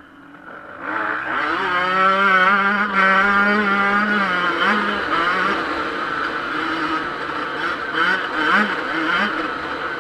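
Yamaha YZ125 two-stroke motocross engine revving up steeply about a second in and held at high revs with a wavering note, then rising and falling with short throttle blips near the end.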